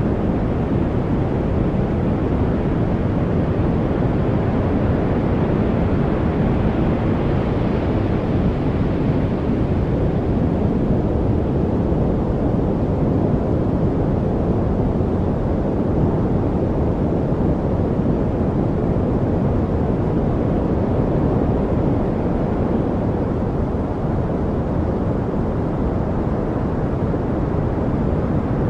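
Steady, unbroken rushing noise, deep and heavy in the low end like brown noise, with no birds or other distinct sounds in it. It grows a little brighter for a few seconds about seven seconds in.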